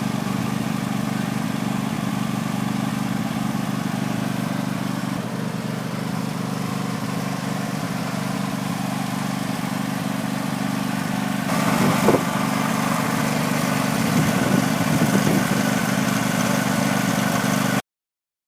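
John Deere LT180 lawn tractor engine running steadily. A little over halfway through it gets louder and busier, with a sharp clunk at the change, and the sound cuts off abruptly near the end.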